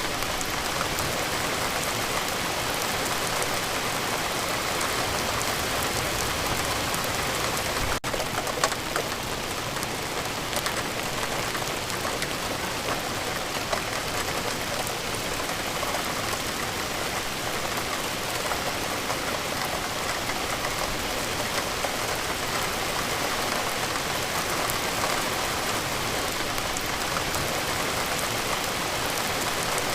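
Steady rain falling, an even hiss with scattered drop ticks, with a brief dip and a single louder tick about eight seconds in.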